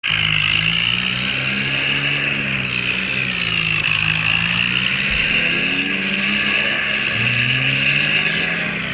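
Tractor engine running steadily, its pitch rising and falling a little as it is revved.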